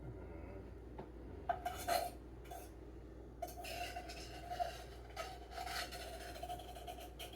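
A utensil scraping and clinking against dishes: a short scrape about a second and a half in, then a longer stretch of scraping from about halfway through.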